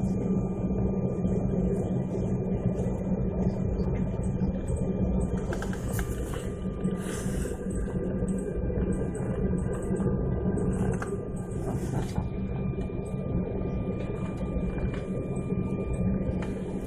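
Airliner cabin noise: a steady low drone with a thin, constant whine above it from the aircraft's engines and air systems.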